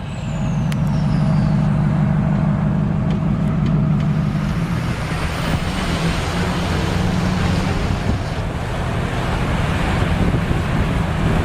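A motor vehicle's engine running steadily. From about five seconds in, a rushing hiss grows over it.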